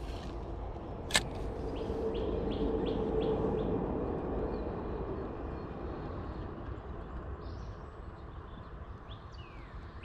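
Small birds chirping, with a quick run of short high chirps a few seconds in and again near the end, over a low steady outdoor rumble. A single sharp click about a second in.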